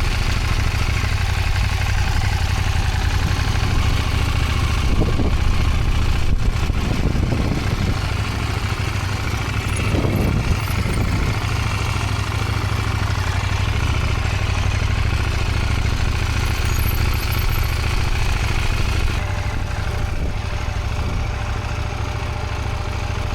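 Motorcycle engine running at low speed under clutch control during slow manoeuvres, a steady low rumble with the engine note swelling briefly twice.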